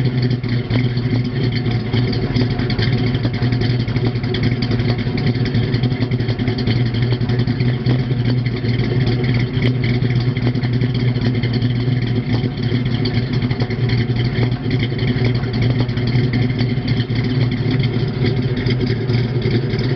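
Chevrolet ZZ4 350 small-block V8 idling steadily, its exhaust running through new mufflers.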